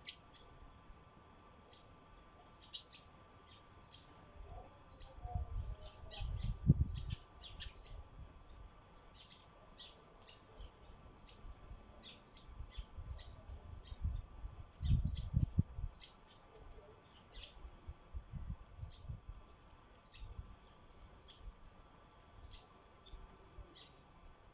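Sparrows at a bird feeder chirping in short, scattered chirps throughout. Two bouts of dull, low thumps stand out as the loudest sounds.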